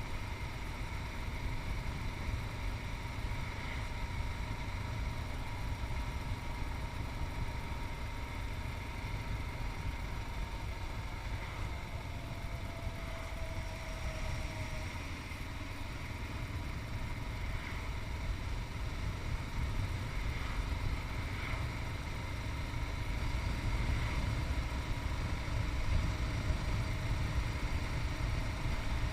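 Yamaha MT-03's 660 cc single-cylinder engine running steadily under a strong low rumble, picked up by a chest-mounted action camera, getting a little louder near the end.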